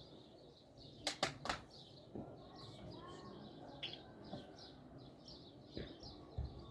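Small birds chirping over and over, with three sharp knocks close together about a second in and a few softer knocks later.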